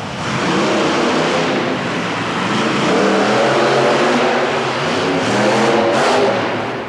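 Monster truck engine revving hard, its pitch climbing and falling back several times, over a dense wash of noise.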